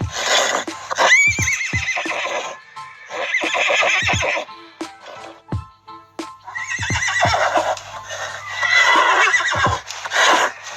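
Horse whinnying several times, in shrill, wavering calls, over background music.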